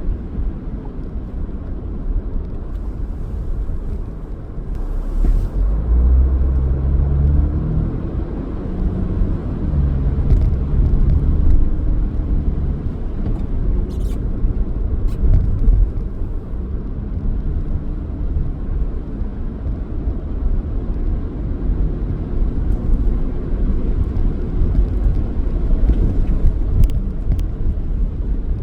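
Car driving along: steady low engine and road rumble, swelling louder for several seconds near the start, with a few faint clicks.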